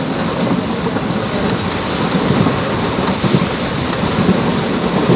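A moving train's steady, loud rushing noise with an uneven low rumble underneath.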